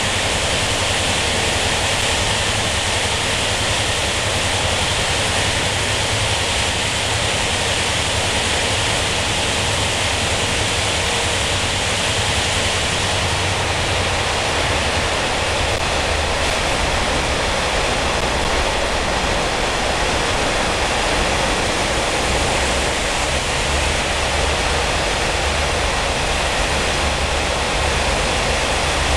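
Steady, loud running noise of a TRA non-air-conditioned ordinary-train passenger carriage inside a long tunnel: wheels on rails and rushing air, heard from inside the coach, with no pauses or distinct clicks.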